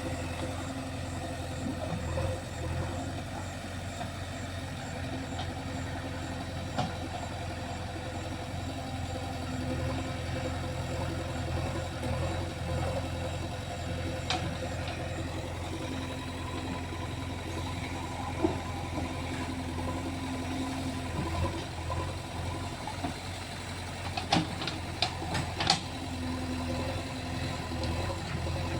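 John Deere 5039 tractor's diesel engine running steadily at a low, even speed, with a few sharp clicks near the end.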